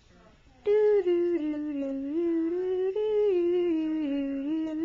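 A person's voice humming a slow tune in two long phrases, the pitch stepping down and then back up in each.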